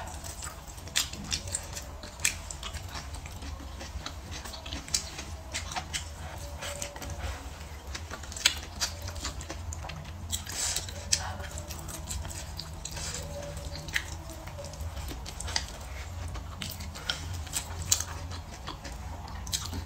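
Close-up eating sounds: chewing of braised pork ribs and green peppers with rice, with frequent short wet mouth clicks and smacks. A steady low hum runs underneath.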